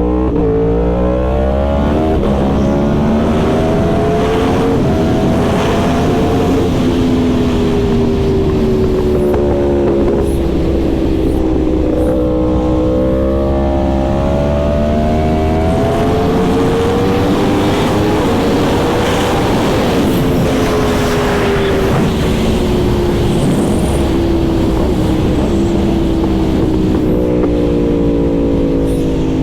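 Yamaha R1 sportbike's inline-four engine under way, its pitch climbing as it pulls and sinking back several times, with a steady rush of wind and road noise.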